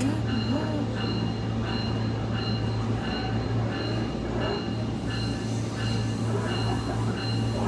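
SMART diesel railcar running, heard from inside the car: a steady low engine drone with wheel and track noise. Over it, a bell rings about twice a second throughout.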